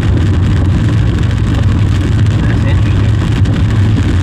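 Steady low drone of road and engine noise inside a moving car.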